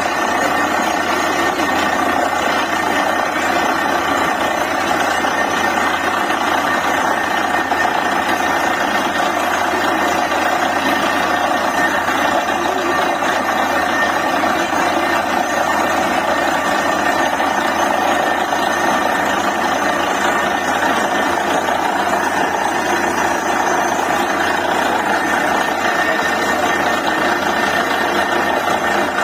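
DTH borewell drilling rig running steadily under load while drilling, a loud, even mechanical din that does not let up.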